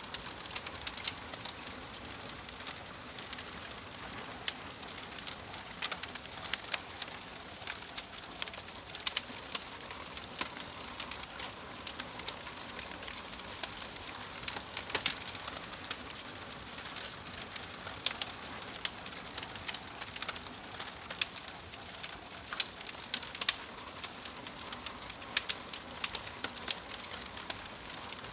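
Wood fire crackling in a fireplace: frequent sharp, irregular pops and snaps over a steady low hiss.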